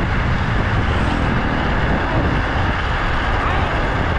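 Minibike ridden at speed: a steady, loud rush of small-engine and riding noise.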